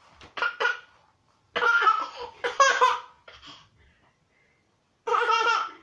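Baby laughing in several high-pitched bursts: short giggles at first, a longer stretch of laughter in the middle, and another burst near the end.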